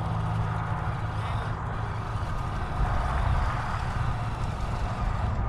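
Redcat Scout II Gen8 V2 RC scale crawler's electric motor and gear drive running steadily as it crawls.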